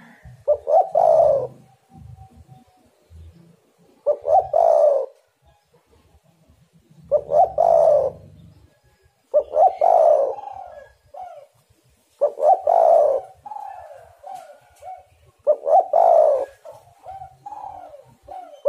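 Spotted dove (tekukur) cooing: a repeated phrase of low coos, about one phrase every three seconds, six in all, some ending in a few shorter trailing notes.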